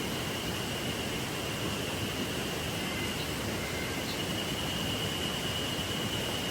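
A river or stream flowing steadily, an even rushing of water, with a thin, steady high-pitched tone above it.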